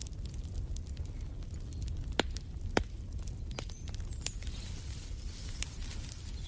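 Wood fire crackling in a fireplace: scattered sharp pops and snaps over a low steady rumble, with two louder pops in the middle.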